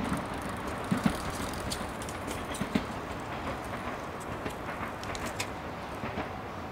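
JR West 415 series three-car electric train running away along the track, its steady rumble slowly fading. A few sharp wheel clacks sound about a second in and again near three seconds.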